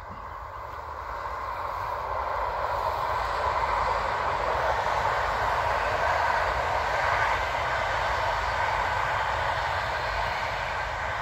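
Red passenger train passing, the rush of its wheels on the rails swelling to a peak about halfway through, then slowly fading.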